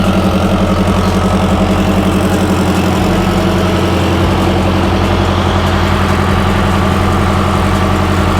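Semi truck's diesel engine idling steadily, with a fast, even pulse.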